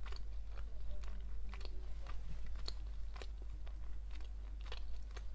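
A person chewing food close to a clip-on microphone: irregular wet mouth clicks and soft crunches, about two a second.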